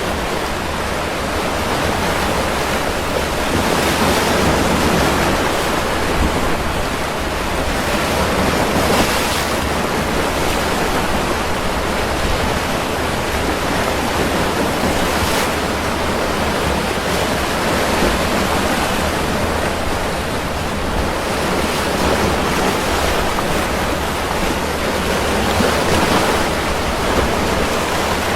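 Ocean surf: a continuous wash of breaking waves, surging louder every few seconds as each wave breaks.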